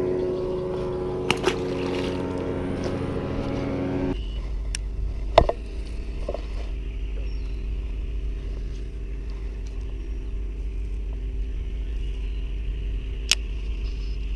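A steady motor hum that cuts off suddenly about four seconds in, followed by a low rumble with a few sharp clicks.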